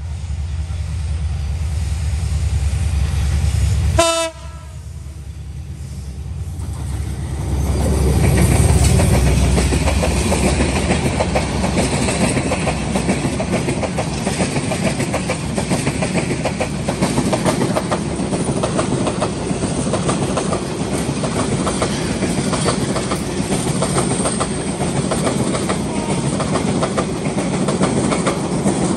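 Metre-gauge diesel-hauled passenger train passing close by: a deep, steady locomotive rumble that cuts off abruptly about four seconds in, then the coaches go past with a rapid, continuous clickety-clack of wheels over rail joints, loudest about eight to ten seconds in.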